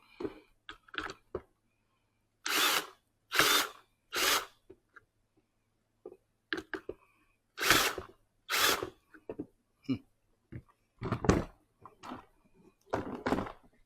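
Cordless drill driving an electric-start adapter in a string trimmer, run in about seven short bursts of roughly half a second each with small clicks between. The trimmer engine never catches, because the plastic drive piece inside the trimmer's electric start had wobbled out.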